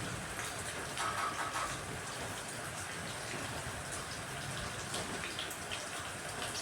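Steady rain falling, a continuous even hiss, with a few faint short bird chirps over it.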